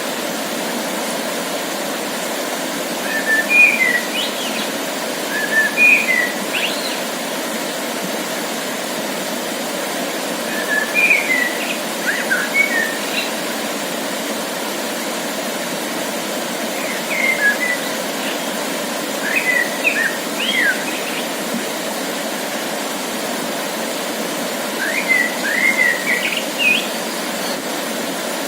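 A songbird singing short, quick, pitch-sliding phrases in groups a few seconds apart, over a steady rushing background noise.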